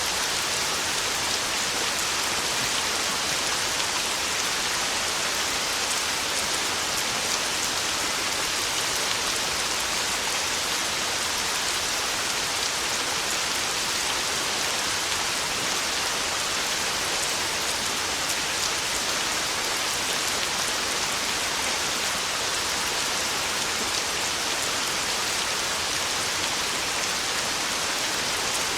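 Heavy rain falling steadily on a tin roof, an even hiss with the fine patter of drops.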